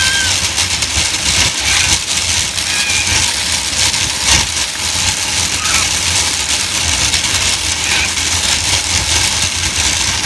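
Shopping cart rolling fast over pavement, a steady loud rattle and rush of its wheels and wire basket.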